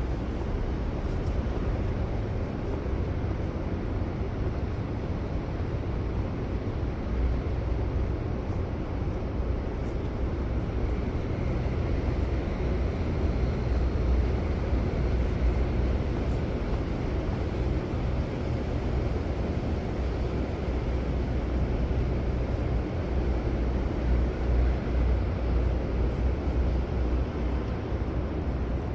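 Steady city street traffic: a continuous low rumble of vehicles, with no single event standing out.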